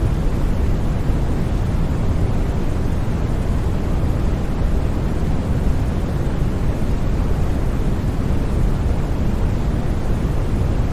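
Steady synthetic white noise for sleep: a constant, unchanging hiss with most of its weight in the low end, giving it a deep, rumbling character.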